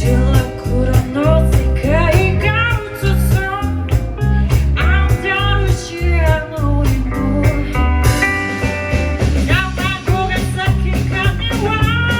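Live band playing a blues-rock number: guitar over a heavy bass line and a steady drum beat.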